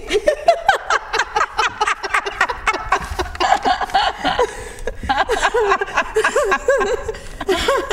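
People laughing in rapid, repeated bursts.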